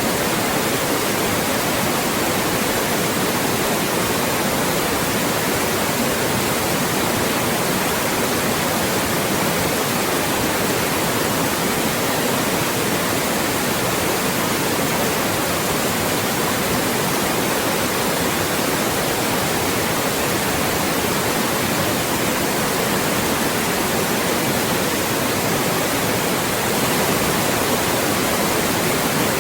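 Loud, steady white noise: an even, unbroken hiss spread across the whole range of pitch, thin only in the deepest bass.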